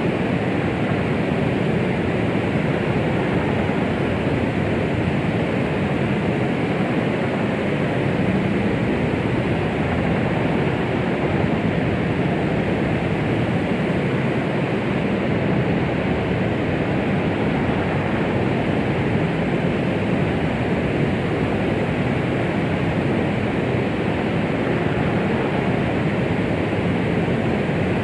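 Continuous white-noise 'womb sound' for soothing a baby: a steady, even hiss with its weight in the low and middle range, no pulse or rhythm.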